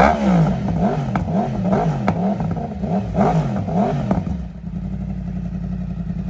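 Yamaha R1 crossplane inline-four engine through a Dominator GP3 aftermarket exhaust, blipped in quick repeated revs for about four seconds, then dropping to a steady idle.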